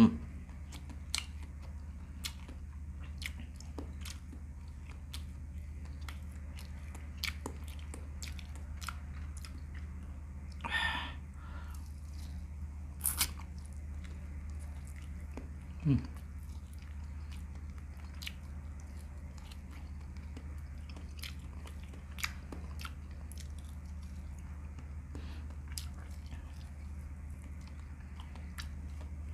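Close-up chewing and mouth sounds of a person eating chicken and mutton with rice by hand: wet smacks and short clicks scattered throughout, with a couple of brief murmurs near the middle, over a steady low hum.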